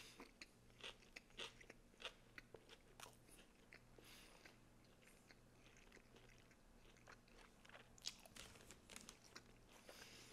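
Faint, close-miked chewing of a mouthful of Subway footlong sandwich (Italian bread, salami, pepperoni and raw vegetables): small, irregular crunches and mouth clicks, busiest at the start and again about eight seconds in.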